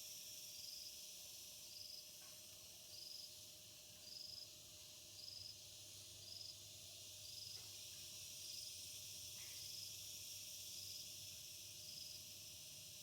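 A cricket chirping faintly and evenly, a short high chirp a little more than once a second, over a steady high hiss.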